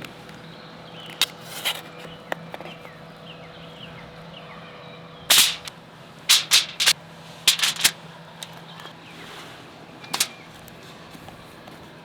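Wood snapping and popping in a string of sharp cracks, irregularly spaced and some in quick clusters of two or three.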